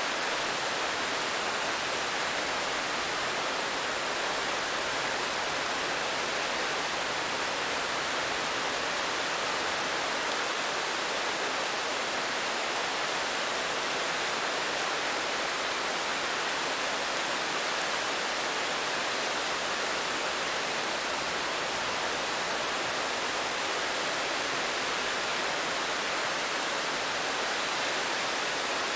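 Steady rain: an even, unchanging hiss with no single drops or thunder standing out.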